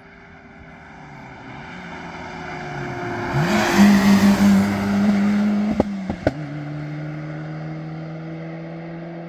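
Modern rally car approaching at speed: its engine note builds to a loud, steady pitch as it passes. Several sharp cracks come about six seconds in, and then the engine note drops lower as the car moves away.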